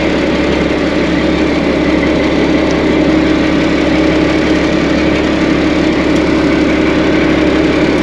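A truck engine idling steadily close by, an even hum with no change in speed.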